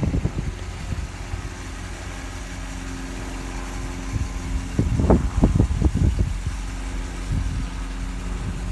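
Car engine, freshly installed, idling steadily. About five seconds in, a second or so of irregular low thumping and rumbling rises over it.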